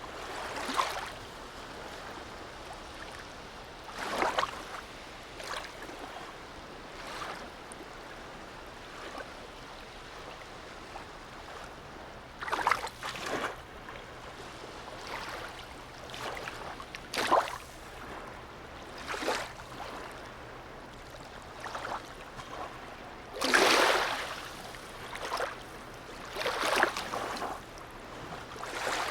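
Harbour seawater lapping and splashing in irregular surges, the biggest about three quarters of the way through, over a faint steady low hum.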